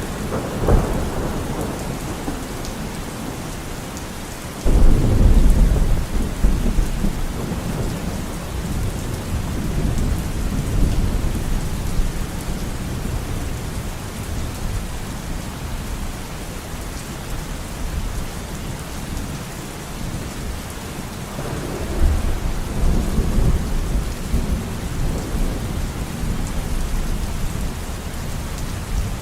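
Steady rain falling in a thunderstorm, with rolls of thunder. A loud rumble breaks in suddenly about five seconds in and fades away over several seconds, and another rumble comes about twenty-two seconds in.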